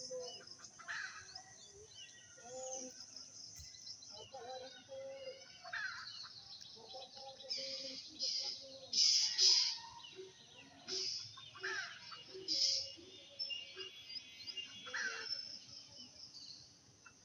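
Small birds chirping and calling over and over in short, high bursts, loudest about halfway through, with fainter, lower sounds underneath.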